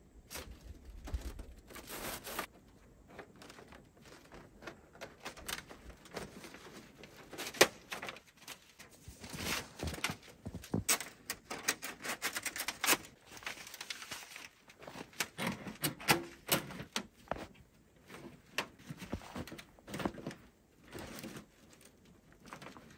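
Irregular knocks, clicks and rustling, as of things being handled and worked by hand, thickest in the middle stretch.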